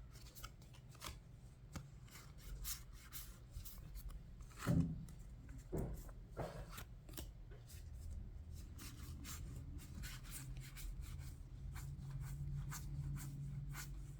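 Trading cards being handled and sorted by hand: cards sliding and rubbing against each other, with many small taps and clicks as they are set down, and one louder scrape about a third of the way in.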